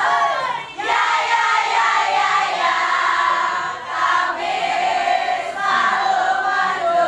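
A group of young voices singing a song together in chorus.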